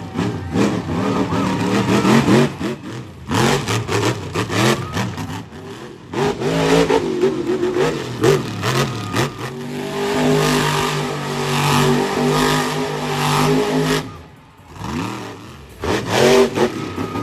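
Monster truck engine revving hard, its pitch climbing and falling over and over, then held high for about four seconds before dropping off and building again near the end.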